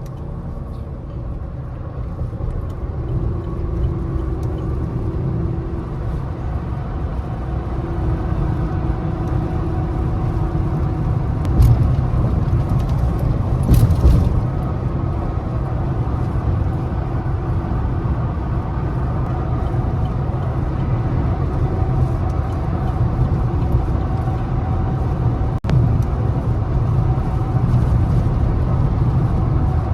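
Lifted Chevrolet Silverado pickup cruising at highway speed: a steady low drone of engine and road noise heard from inside the cab. Two brief louder noises come about twelve and fourteen seconds in.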